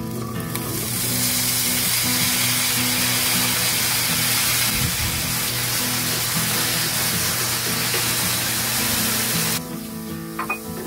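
Diced potatoes sizzling in hot oil in a nonstick frying pan. The hiss starts as the potatoes hit the oil, holds steady, and cuts off suddenly near the end. Background music plays throughout.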